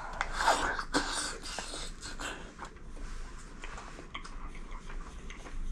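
Close-up mouth sounds of eating a bite of soft tofu topped with mentaiko (pollock roe). A wet slurp comes in the first second or so, then soft chewing clicks with the mouth closed.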